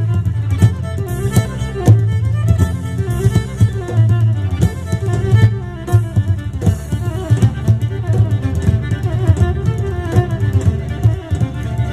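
Live instrumental music: a violin melody with wavering, sliding notes over a deep bass and a regular beat.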